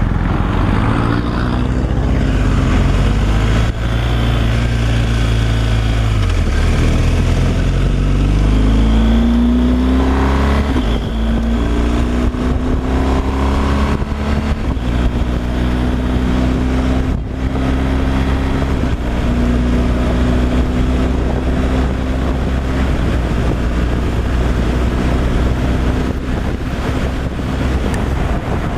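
Heavy truck's diesel engine running on the road with road noise. The engine pitch drops about six seconds in and again around eleven seconds, as the engine speed changes, then holds steady.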